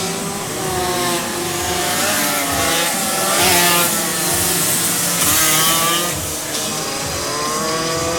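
Several car engines running and revving at once, their pitches rising and falling over one another, over a steady hiss.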